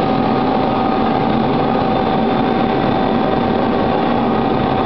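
Vertical glass washing machine running: a steady mechanical noise with a constant whine.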